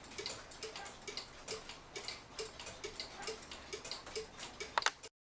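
1977 double-pendulum cuckoo clock's August Schwer movement ticking evenly, about two ticks a second with alternating tick and tock. Near the end there is a louder double click, then the sound cuts off.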